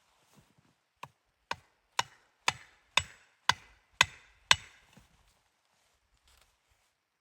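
Axe chopping wood: eight sharp strikes, about two a second, each louder than the last.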